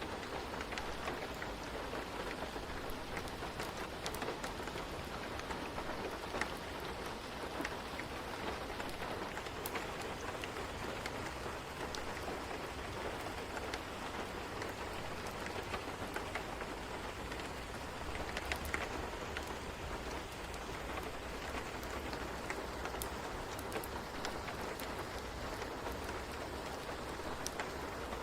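Steady rain ambience: an even hiss of rain with scattered small ticks and crackles over a low, steady rumble.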